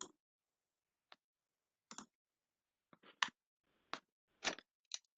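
A handful of short, sharp clicks and small handling noises, about seven spread irregularly over five seconds, with dead silence between them.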